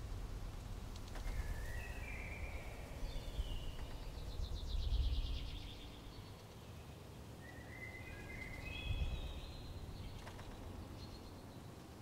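A songbird sings two phrases, each a run of short notes stepping up in pitch, over a low fluctuating rumble.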